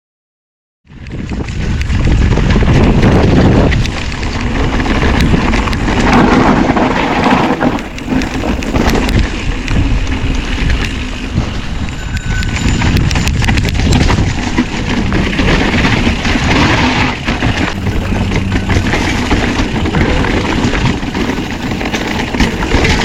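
Wind buffeting a GoPro microphone over the rumble of mountain bike tyres rolling on a dirt trail and the bike rattling. It starts abruptly a little under a second in, after dead silence.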